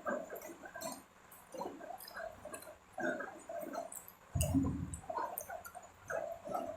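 Close-miked wet chewing and mouth sounds of someone eating, with small clicks, and one louder, deeper sound lasting about half a second about four and a half seconds in.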